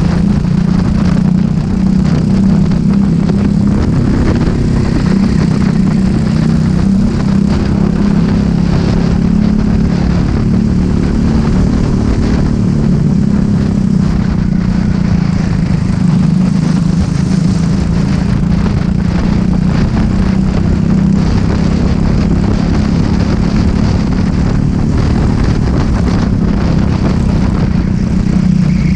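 Racing kart engine running at race pace, heard close up from the kart, its pitch dipping slightly and climbing again as the throttle comes off and back on through the corners.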